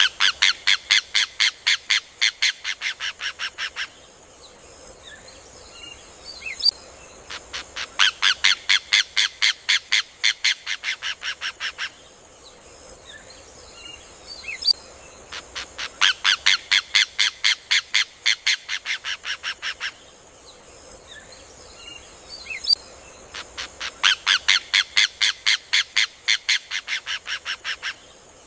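Rufous hornero (João de Barro) song: four bouts of rapid, loud, ringing notes. Each bout lasts about four seconds, slows slightly toward its end, and starts again every eight seconds, over a faint steady high hiss.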